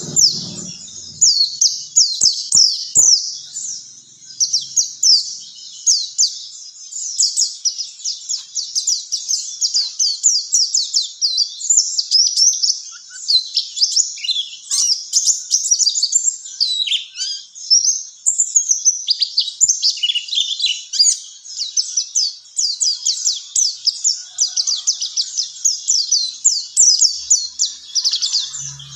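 A white-eye (pleci) singing a long, unbroken, high-pitched twittering song of rapid, quickly falling notes.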